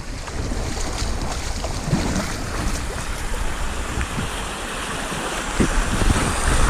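Stream water rushing over a small rapid, a steady wash of noise with a few brief low thumps.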